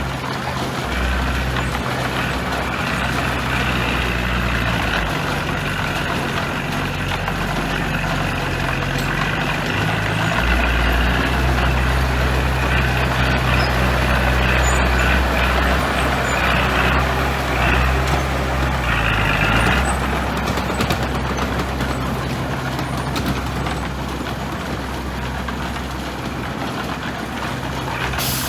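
Heavy diesel engine of a construction machine running under changing load, its pitch stepping up and down several times. A higher whine runs over it through most of the first two-thirds, stopping about twenty seconds in.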